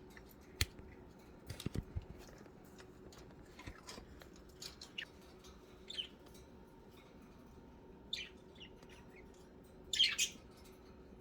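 Budgerigars giving short, scattered chirps, the loudest cluster about ten seconds in. A few sharp clicks come in the first two seconds.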